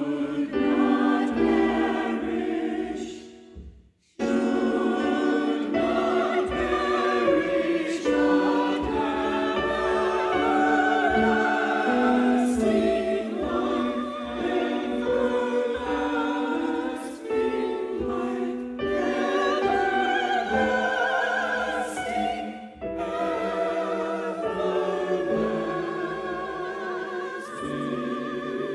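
Church choir singing, the voices held with vibrato, with a short break between phrases about four seconds in.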